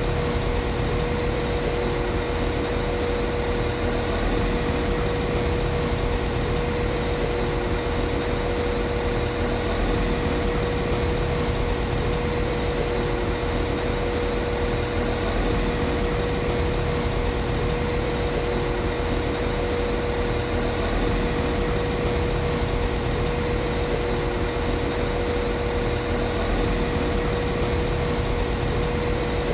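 CAF Class 195 Civity diesel multiple unit's underfloor diesel engine idling steadily. A constant whine held at one pitch sits over the engine's rumble.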